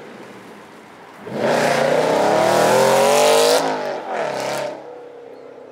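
Supercar accelerating hard, its engine note climbing for about two seconds, then dipping at a gear change and rising again in a shorter burst before fading away.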